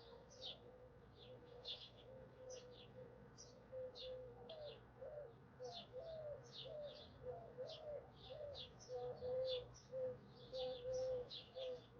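Birds chirping, with short falling high notes several times a second. Under them a lower-pitched bird calls repeatedly, and its notes grow more warbling about halfway through.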